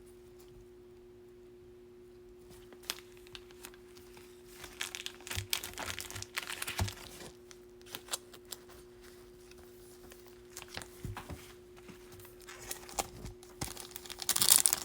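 Foil wrappers of Bowman baseball card packs being torn open and crinkled while cards are handled, in scattered spells of crinkling and clicks, starting about four seconds in and louder near the end. A faint steady hum runs underneath.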